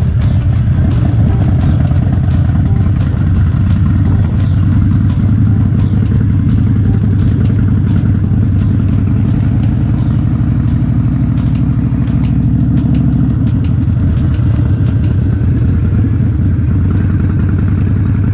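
Harley-Davidson Dyna's V-twin engine running as the motorcycle is ridden, a loud, low, steady exhaust note.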